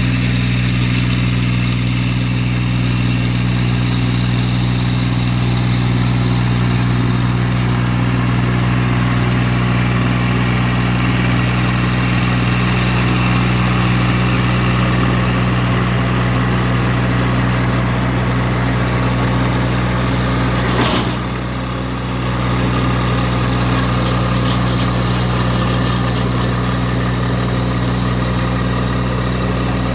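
Massey Ferguson GC1710 sub-compact tractor's three-cylinder diesel engine running steadily, driving a Woods RTR 48.30 reverse rotary tiller working the ground. A single sharp knock comes about two-thirds of the way through, and the sound dips briefly after it.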